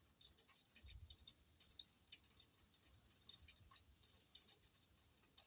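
Faint patter of rain: many small irregular drips and taps, several a second, with a brief low rumble about a second in.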